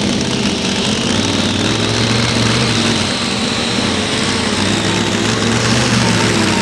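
Light pro stock pulling tractor's turbocharged diesel engine running steadily, with a faint high whine above it that rises a little in the first couple of seconds.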